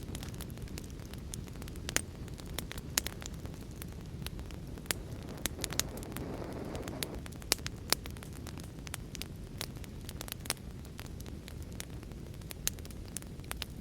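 Wood fire in a fireplace crackling, with sharp irregular pops, over a steady low rushing noise. A brief swell of noise rises and fades about six seconds in.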